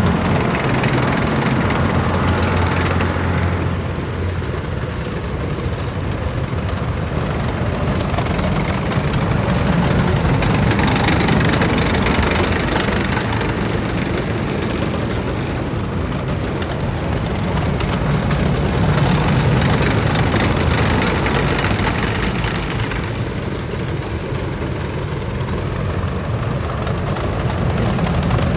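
Heavy military vehicles' engines running loudly as a column drives past one after another. The sound swells and eases several times as each vehicle nears and passes.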